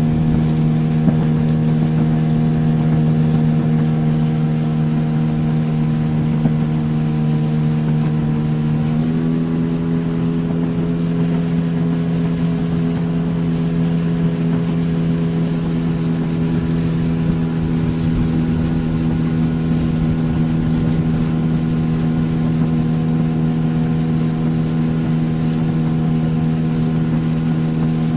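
Motorboat engine running steadily under way, its pitch stepping up slightly about nine seconds in and then holding.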